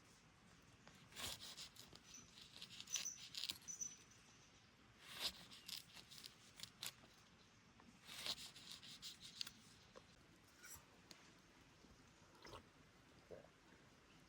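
Faint, scattered clicks and rustles in short clusters, some sharp and high, over a quiet background.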